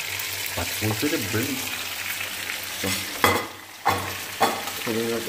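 Food frying in hot oil with a steady sizzle, broken by a few sharp knocks a little past the middle.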